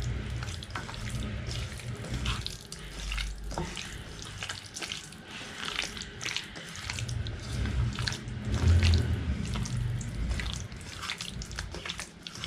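Raw chicken pieces being mixed with curd and spice paste in a bowl: irregular wet squelches and small clicks, over a low rumble.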